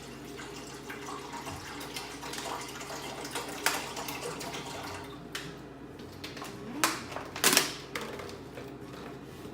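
Water running and splashing in the kitchen, with a few sharp knocks of pots or utensils, the loudest near the end.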